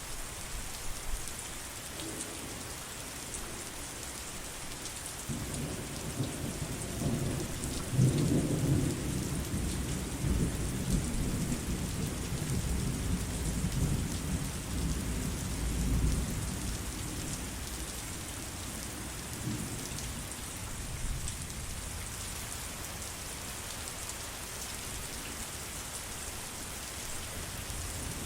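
Steady rain falling, with a long rolling rumble of thunder that builds about five seconds in, is loudest a few seconds later and dies away over the following ten seconds.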